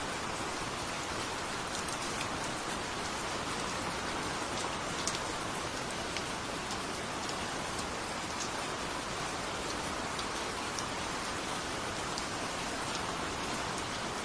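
Steady rain falling, an even wash with scattered individual drops ticking.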